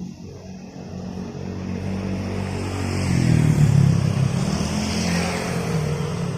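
A motor vehicle's engine running as it passes close by, growing louder to a peak about halfway through and then fading a little.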